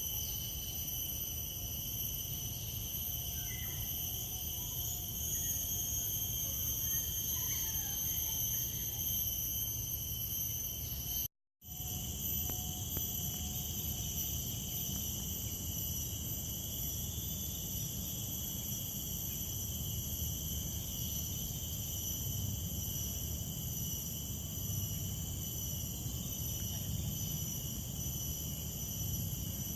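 Steady high-pitched insect chorus, several insects each holding its own unbroken tone, over a low rumble. The sound cuts out completely for a split second about eleven seconds in.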